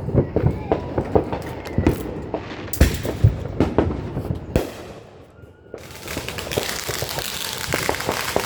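Consumer fireworks going off: a run of sharp pops and bangs, loudest about three seconds in, then after a short lull a steady hissing crackle.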